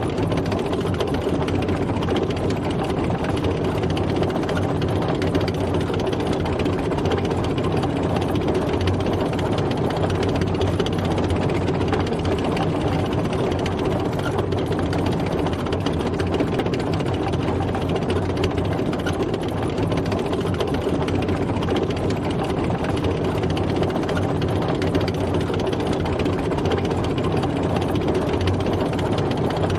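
Tank driving, its engine running steadily at an even pace with no change in speed.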